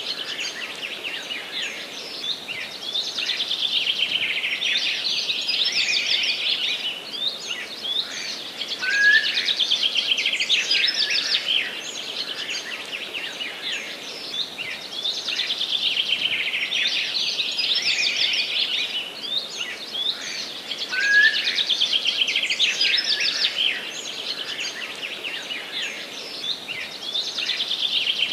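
Several forest songbirds singing and chirping, with overlapping high trills and twittering phrases. The same bursts of song recur about every twelve seconds over a soft steady background hiss.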